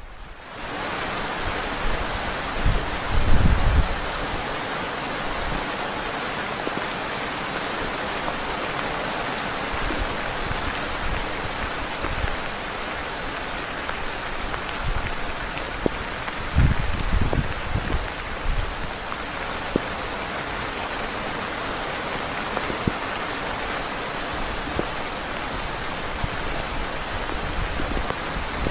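Heavy rain pouring steadily, starting abruptly just after the start, with low rumbles swelling under it about three seconds in and again around seventeen seconds.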